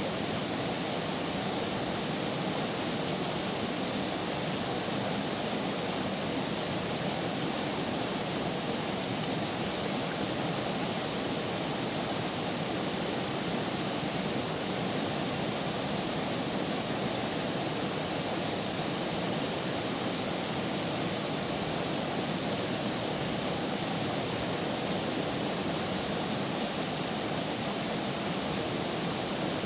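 Flowing river water: a steady, even rush without any breaks.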